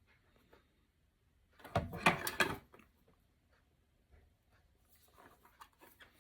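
A short burst of clattering and rustling about two seconds in, from fly-tying tools or materials being handled on the bench, followed by fainter rustling and clicks near the end.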